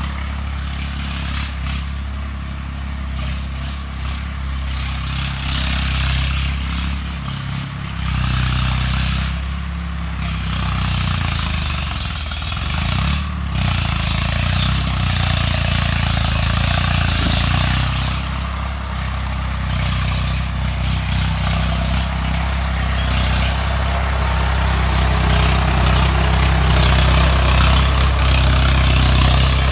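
Diesel engine of a Swaraj 855 FE tractor running steadily, with a deep low hum that grows somewhat louder in the second half.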